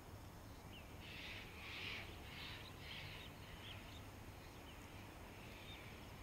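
A bird calling at a distance: a quick run of about five harsh calls between one and three seconds in, with a few short chirps, over a faint low steady hum.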